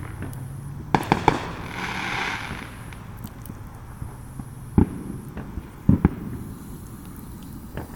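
Distant aerial fireworks going off: a quick cluster of three bangs about a second in, a short hiss, then single bangs near five and six seconds and a fainter one near the end.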